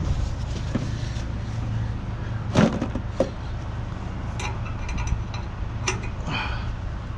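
A truck engine idling steadily, with a handful of sharp metallic clanks and knocks. The clanks come from work under the truck to take the driveshaft off for towing; the loudest is about two and a half seconds in.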